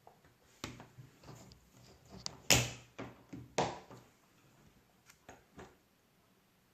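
A series of irregular clicks and knocks, loudest about two and a half seconds in and again about a second later, then a few fainter ticks.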